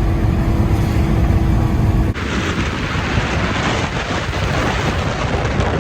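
Subaru Outback driving on a dirt road: a steady low rumble of engine and tyres, which changes abruptly about two seconds in to a loud, even hissing rush of gravel and wind noise.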